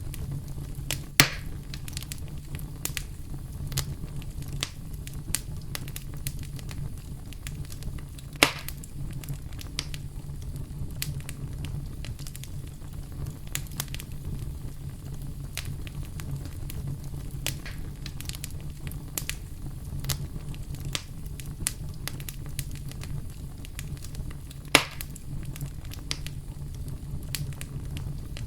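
Campfire crackling with scattered sharp ticks over a steady low brown-noise rumble. Three louder pops stand out: about a second in, about eight seconds in, and near the end.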